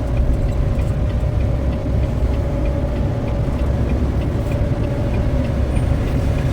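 Semi truck running with a steady low rumble and a steady hum, and faint regular ticks about two or three times a second.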